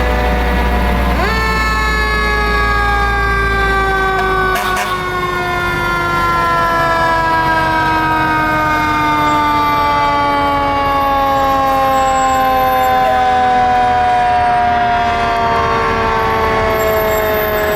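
Fire truck siren, loud: it winds up sharply about a second in, then wails slowly downward in pitch as it coasts down. A low engine rumble sits under it for the first few seconds, and there is a brief knock near five seconds.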